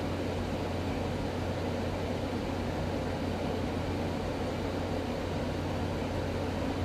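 Revlon One-Step hot-air brush hair dryer running steadily: a constant motor hum under an even rush of blown air.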